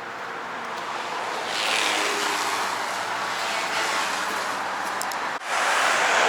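Road traffic: the rushing noise of cars passing, swelling about a second and a half in. The noise breaks off abruptly near the end, then swells again.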